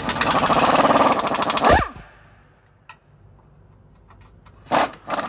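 Impact wrench hammering rapidly for almost two seconds as it backs out an exhaust bolt, then its motor winding down with a falling whine. Two short, loud bursts near the end.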